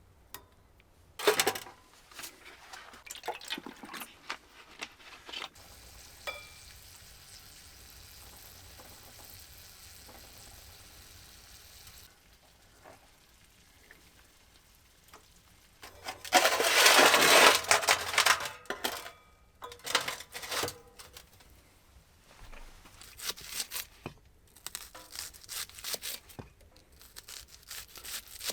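Food cooking in a pot or pan over heat: sizzling, with scattered clinks and scrapes of stirring. It hisses steadily for a few seconds, then sizzles loudly for about three seconds past the middle.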